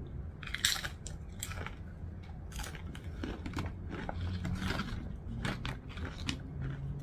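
Close-miked crunching and chewing of a crisp toasted flatbread chip with dip, in irregular crunches.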